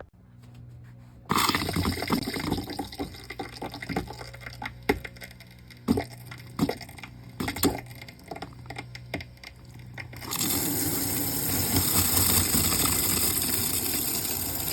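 Water running from a camper's faucet: an uneven rush with sharp pops at first, then a steady, louder full stream from about ten seconds in.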